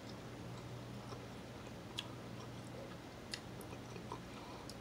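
Quiet chewing of a mouthful of scrambled eggs, with a few light clicks of a metal fork against the plate, the sharpest about two seconds and three and a half seconds in, over a low steady hum.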